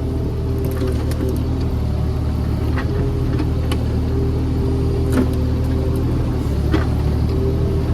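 Mini excavator's diesel engine running steadily under load, with a higher hydraulic whine that shifts in pitch as the arm works. A few sharp knocks come through, about three seconds, five seconds and seven seconds in.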